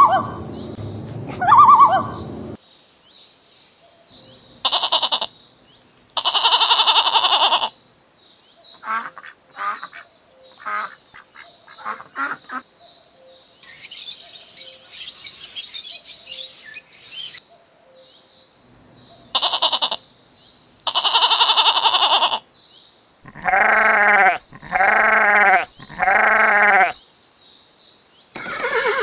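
A string of farm animal calls. A short call followed by a long one comes twice, three calls come in a row near the end, and quick chirps fall in between.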